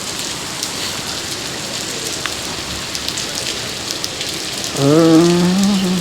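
Heavy rain falling steadily, a dense hiss dotted with the sharp ticks of drops striking close by. Near the end a person's voice sounds briefly, a short wordless hum or call of about a second.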